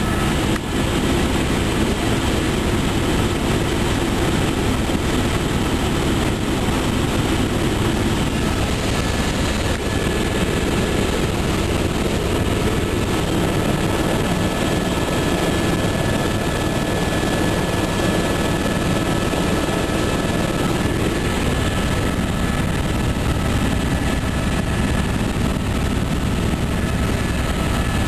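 Helicopter in flight heard from on board, rotor and turbine running steadily with a fast low beat under a constant whine.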